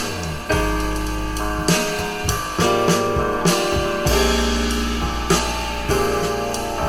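Music with guitar, drum kit and a sustained bass line, played through a Fostex FE126NV 12 cm full-range driver in a 12-litre bass-reflex cabinet.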